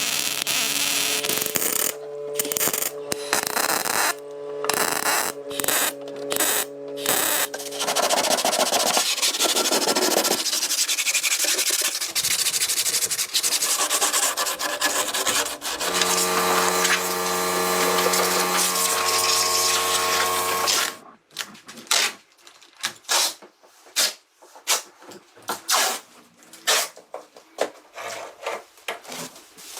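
Power tool sanding or grinding on car body metal: choppy at first, then continuous for about thirteen seconds with a motor tone over the last five, stopping about 21 seconds in. Short scrapes and clicks follow.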